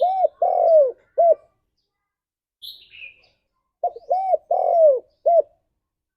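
Spotted dove cooing: two identical phrases about four seconds apart, each a short note, a rising-and-falling note, a long falling note and a short final note. A brief, faint higher chirp falls between the phrases.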